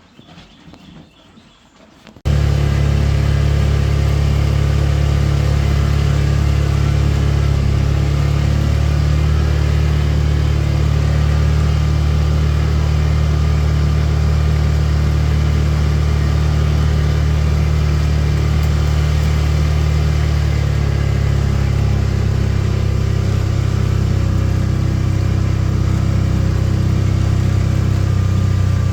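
A motor vehicle's engine running steadily at close range after a sudden start about two seconds in, with a deep, even drone; its note drops a little about 21 seconds in.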